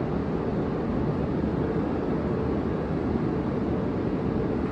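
Steady, even rumble and hiss from an H5 series Shinkansen standing at the platform with its onboard equipment running.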